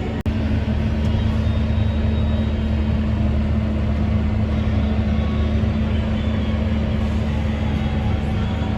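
Vehicle engine running steadily at constant speed: a low drone with a steady hum over it, cutting out for an instant just after the start.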